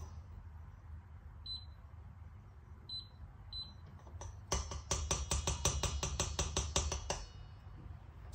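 A utensil clinking against a mixing bowl. First come a few single clinks, then a quick run of about five clinks a second for two to three seconds as the pancake batter and vegetables are stirred.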